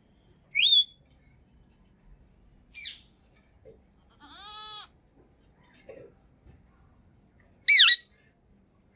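Indian ringneck parrot calling: two loud, short, rising shrieks, one about half a second in and one near the end, with a fainter call between them and a longer, lower drawn-out call about four seconds in.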